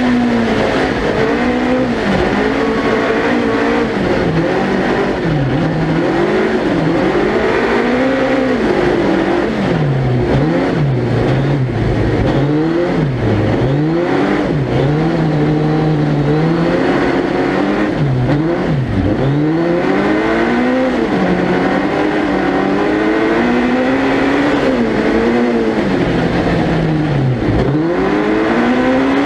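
Suzuki Hayabusa 1300cc inline-four engine in a four-wheel-drive ice-racing prototype, heard onboard. It revs up and drops back over and over, climbing through the gears and lifting off for corners.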